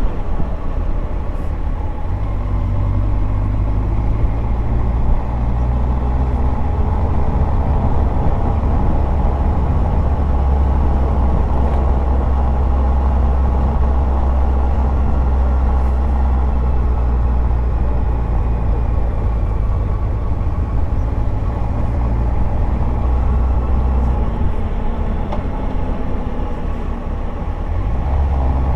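The Yamaha FZS1000's inline-four engine running steadily while the motorcycle rides along, with road noise under it. The engine note shifts pitch about two seconds in and again near the end.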